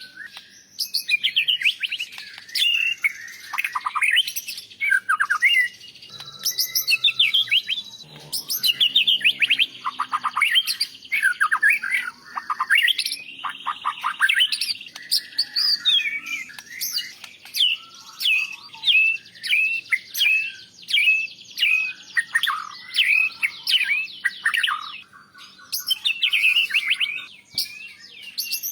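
White-rumped shama singing a loud, varied song of rapid whistled sweeps, trills and mimicked phrases of other birds. In the second half it settles into a run of evenly repeated slurred notes.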